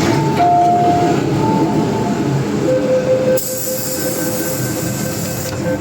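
MTR M-train metro car running on the Island Line: a steady rumble of wheels and running gear with thin, steady whining tones that step to a lower pitch about two and a half seconds in. A hiss starts partway through and stops just before the end.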